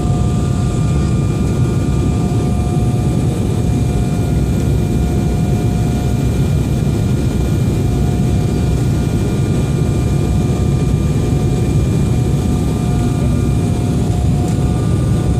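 Airliner's jet engines running steadily: a loud, even rumble with several thin, steady whining tones above it.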